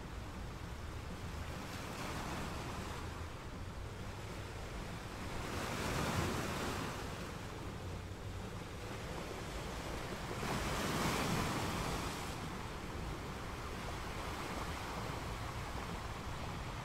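Steady rushing water noise with a low rumble beneath it, swelling louder about six seconds in and again about eleven seconds in.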